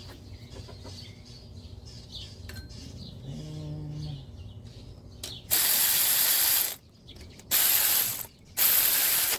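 Power ratchet running in three bursts of about a second each, driving down a bolt that was first threaded in by hand.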